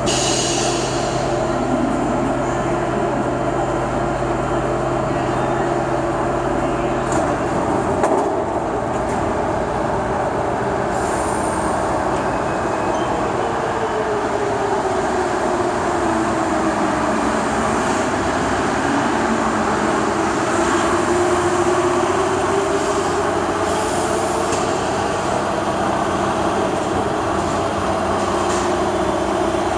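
Santiago Metro train running, a steady rail rumble, with a motor whine that falls in pitch and then rises again about halfway through.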